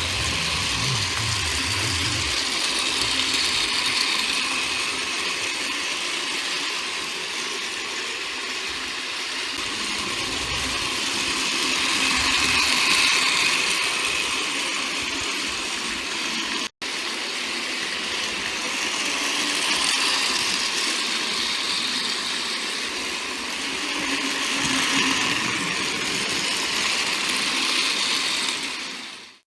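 Battery-powered Plarail toy train running on its plastic track: a steady whirring and gear rattle that grows louder and softer several times as it circles past. It breaks off for an instant about halfway through and fades out at the end.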